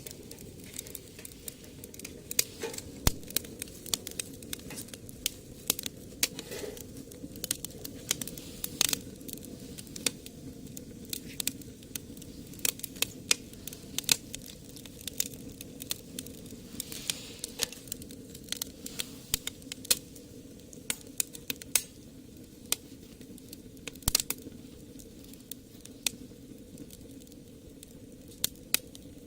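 Wood fire in a homemade brick rocket stove crackling, with irregular sharp pops and snaps over a steady low rush.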